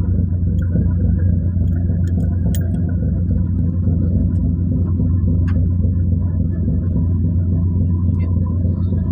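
Ferry's engine running under way: a loud, steady, low drone heard on board.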